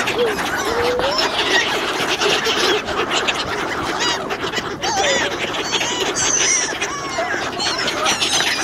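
Many birds calling at once: a dense, unbroken tangle of short overlapping chirps and calls that rise and fall in pitch.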